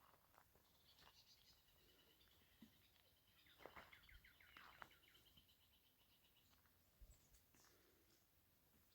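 Faint bird song: a trill of rapidly repeated high notes, with a few quick down-sweeping calls in the middle.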